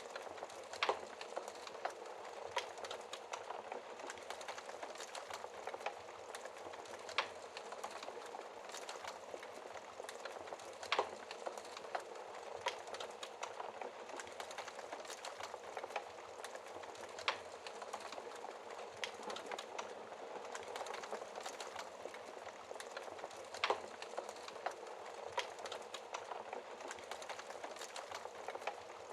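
Wood fire crackling in a fireplace: a steady soft hiss with small irregular crackles and a louder sharp pop every few seconds.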